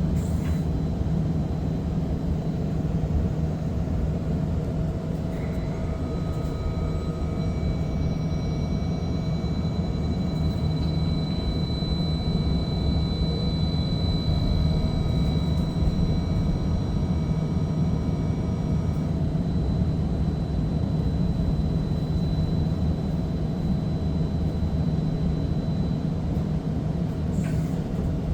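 Streetcar rolling between stops, heard from on board: a steady low hum and rumble of the car on its rails, with several thin steady whines that come in about a fifth of the way through and fade out past the middle.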